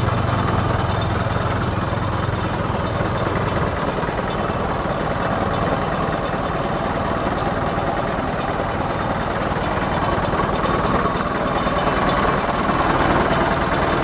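Truck engine running steadily, with a low hum that drops away about four seconds in.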